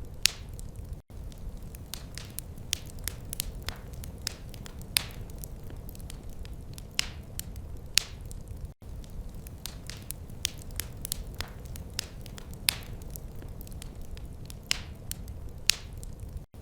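Wood fire crackling in a fireplace: irregular sharp pops and snaps over a steady low rumble of flame. The sound drops out for a split second three times, about every eight seconds.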